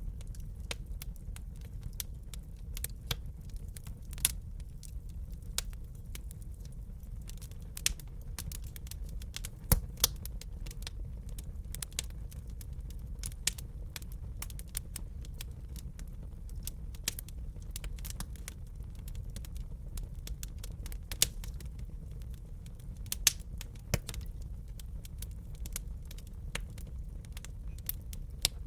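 Wood fire crackling in a fireplace: a steady low rumble of the burning, with irregular snaps and clicks and a few louder pops.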